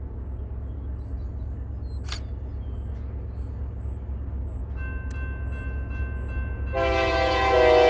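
Diesel locomotive's air horn blowing a held chord: it comes in faintly about five seconds in, then sounds full and loud from about seven seconds in. Underneath is a steady low rumble.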